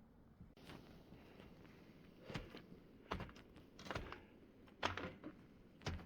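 A hiker's footsteps crunching on snow, one crisp step about every second at a steady walking pace, over a faint steady hiss.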